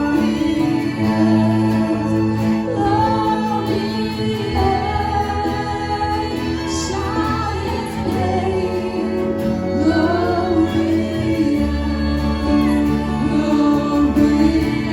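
Christian worship song: voices singing a melody over held instrumental chords and a steady bass line.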